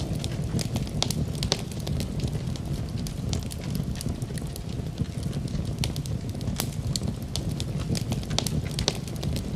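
Wood fire crackling in a fireplace: frequent sharp pops and snaps over a low, steady rumble.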